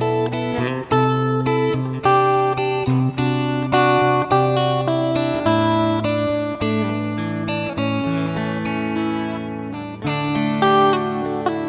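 Background music played on acoustic guitar, plucked and strummed chords at a steady tempo.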